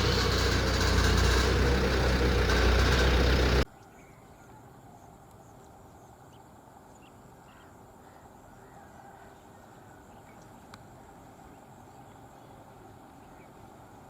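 A large diesel vehicle engine running loud and close, cut off abruptly after about three and a half seconds. It gives way to a quiet outdoor background with a few faint chirps.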